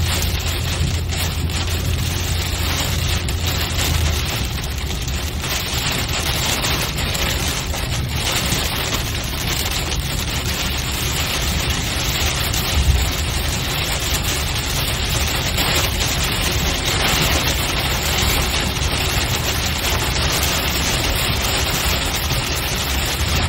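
Car driving in rain: steady wash of rain and wet-road tyre noise over a low engine and road hum, with a brief low thump about thirteen seconds in.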